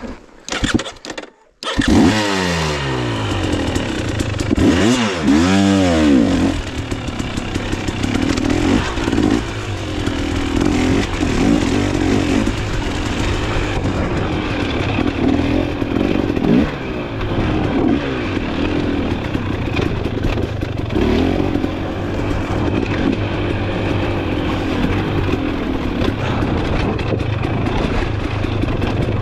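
Dirt bike engine starting about two seconds in, revved twice, then running under constantly changing throttle as the bike is ridden off-road.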